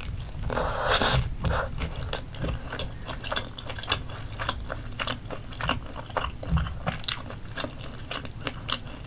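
Biting into a grilled chicken drumstick, with a bite about half a second in. Chewing follows, with many short mouth clicks.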